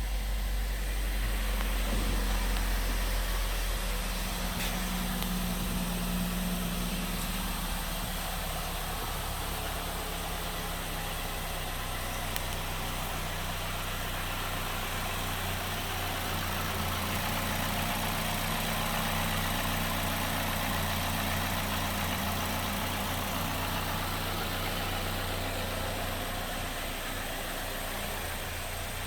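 2013 Chevy Equinox's 2.4-litre four-cylinder engine idling steadily.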